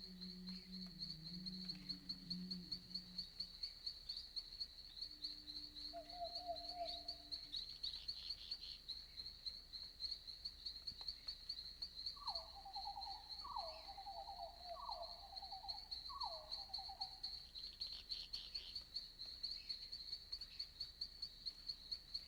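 Night-forest ambience of crickets chirping in a steady, pulsing high trill. A low call sounds in the first few seconds, a short call about six seconds in, and a run of four raspy calls around the middle.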